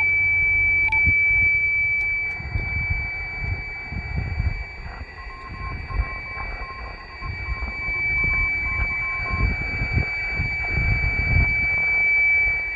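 Receiver audio of a 10 GHz amateur radio microwave beacon in CW mode: a steady, unbroken high tone, sounding clean. An irregular low rumble runs underneath.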